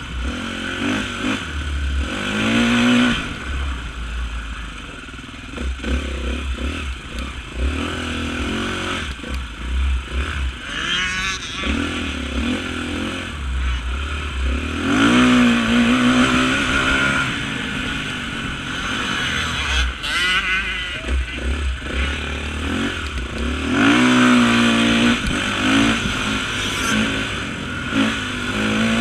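Off-road motorcycle engines revving, their pitch climbing and dropping again and again as the throttle opens and closes, over a low rumble with some clatter.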